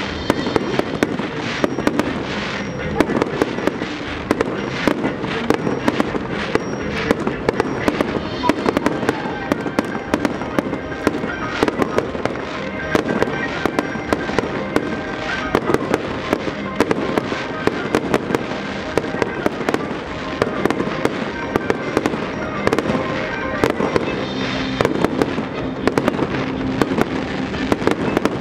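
Aerial fireworks shells bursting in rapid, continuous succession: many sharp bangs and cracks, one after another, over a rumbling bed of reports.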